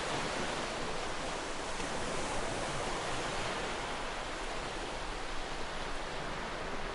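Sea waves washing in a steady hiss of surf, with no distinct breaking crash.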